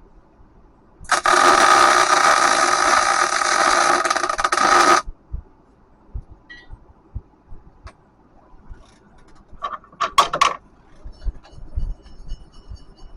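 Welding arc crackling steadily for about four seconds as a bolt hole in a steel forklift rim is filled with weld. Near the end come two short bursts, like quick tack welds.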